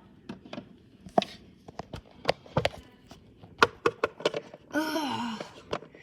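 A run of sharp clicks and taps, like small plastic toy figures and props being handled and set down on a hard surface, with a brief voice sound about five seconds in.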